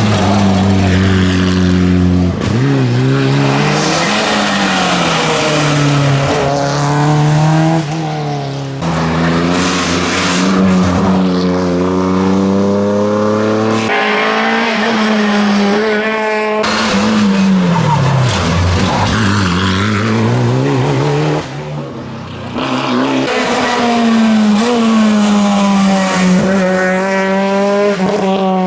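Rally car engines at hard throttle on a stage, the pitch climbing through gear changes and dropping off again several times as cars brake and accelerate past.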